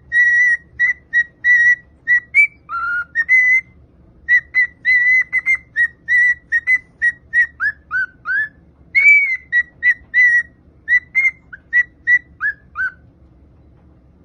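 A parrot whistling a quick run of short, clear notes, most at the same high pitch, with several dropping glides and a few longer held notes. It stops near the end.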